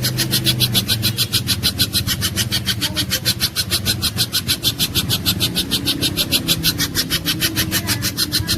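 Spiderhunter (pijantung gunung) calling in a rapid, even string of high, sharp notes, about eight a second, without a break. A low engine-like hum runs underneath.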